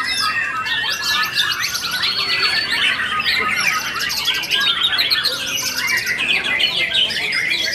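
Several white-rumped shamas (murai batu) singing at once, a dense overlapping stream of whistled notes, fast trills and chattering calls.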